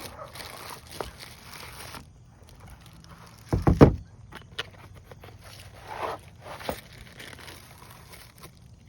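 Handling and opening the packaging of a boxed paper target stand: scattered rustles, clicks and knocks, with a loud cluster of thumps about three and a half seconds in.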